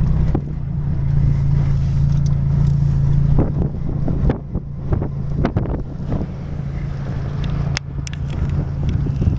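Lada Niva's engine running steadily, its hum fading somewhat after the first few seconds. From about three seconds in, sharp knocks and rattles come through the car, with some wind on the microphone.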